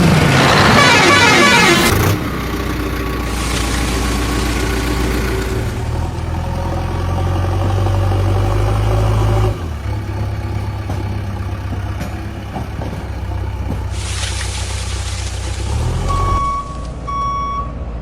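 Heavy vehicle engine sound effects running steadily, with a louder, rougher stretch at the start. Near the end come three short horn-like beeps.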